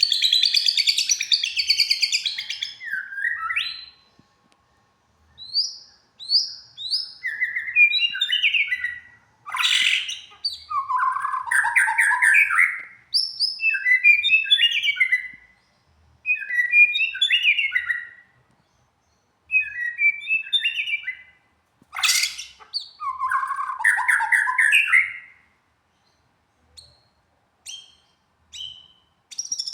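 A songbird singing in repeated phrases of quick, varied chirps and warbles, each a few seconds long with short pauses between them. Two very sharp, loud notes come about a third and two-thirds of the way in. Only short single chirps are heard near the end.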